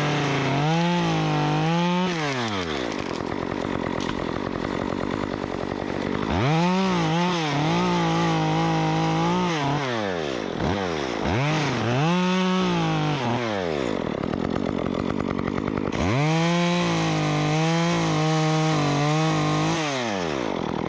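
Stihl MS 194T top-handle two-stroke chainsaw, with a 1/4-inch Ripsaw bar and chain, cutting a tree limb. It revs up and holds at high speed through three long cuts and a couple of short blips, dropping back toward idle between them.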